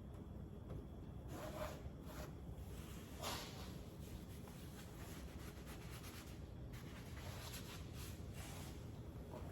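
Faint rubbing of a rag wiping excess fish oil off the car's sheet-metal wheel arch, in a few short strokes with a longer stretch of wiping near the end.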